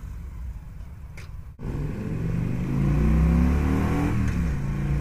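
Victory Gunner's V-twin engine pulling hard under acceleration, its note rising for about two seconds and then falling back at a gear change.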